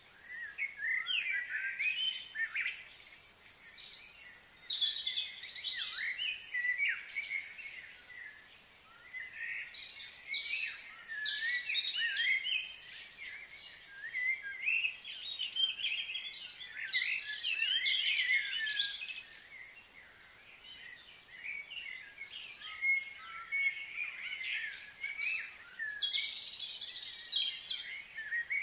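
Birds chirping and singing, many quick overlapping high calls that come in busy spells with short lulls between them.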